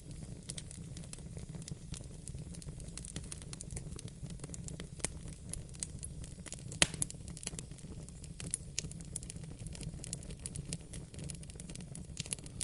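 Wood fire burning in a fireplace: a steady low rumble of flames with frequent irregular crackles and snaps, one sharper pop about seven seconds in.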